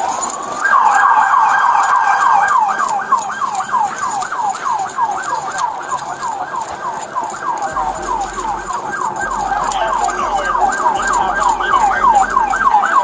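Police car siren in its fast yelp mode, about four sweeps a second, taking off from a short rising wind-up at the start.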